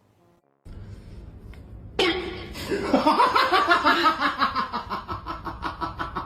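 A person laughing hard in quick repeated bursts, starting suddenly about two seconds in.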